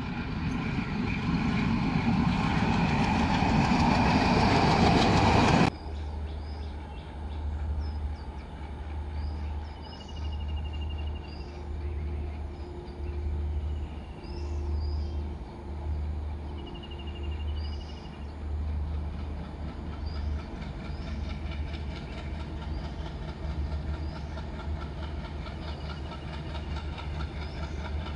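A train running loudly for about six seconds, cut off suddenly. Then the low throb of a distant diesel train engine approaches, pulsing about once a second, with small birds chirping now and then.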